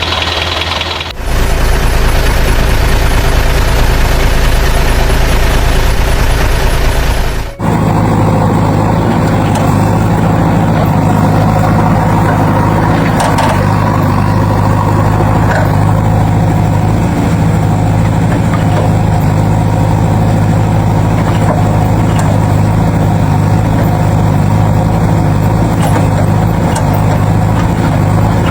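Vehicle engine running steadily at a low pitch, heard in spliced pieces that change abruptly about a second in and again about seven and a half seconds in.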